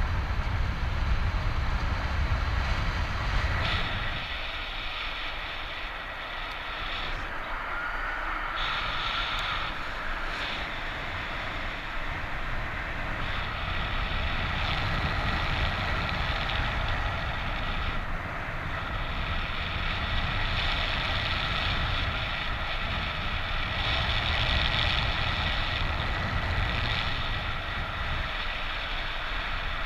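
Wind rushing over the microphone of a paraglider in flight, a steady noise with a heavy low rumble that swells and eases.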